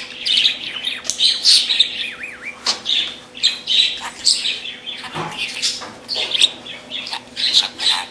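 Pet parrot chirping, whistling and squawking in quick, irregular calls, with a wavering warble about two seconds in.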